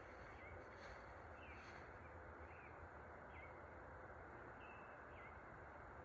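Faint outdoor ambience: a steady low hiss with small birds chirping, short notes about once a second.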